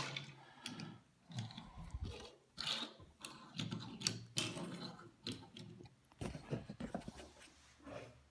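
Irregular light clicks and clacks of small die-cast toy cars being handled and set down one after another, on and around a plastic display case.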